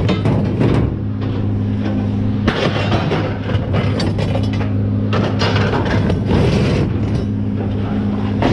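An engine running steadily under repeated clanks and bangs of scrap metal being thrown and dropped, as a truckload of scrap and rebar is unloaded.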